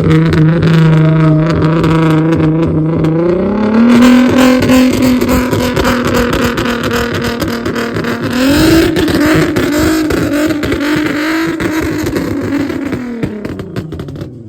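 Car engine revved and held at steady revs. The pitch steps up twice, about 3.5 s and 8.5 s in, holds each time, then drops away near the end.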